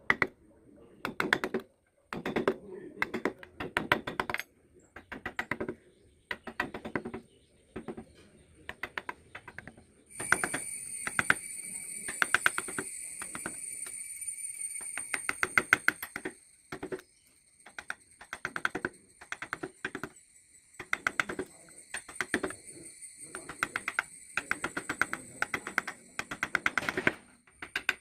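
Wood being carved with hand tools: clusters of rapid, sharp clicks and scrapes as the blade cuts, in short bouts with pauses between. From about ten to sixteen seconds in, a steady high-pitched whine sounds alongside the cutting.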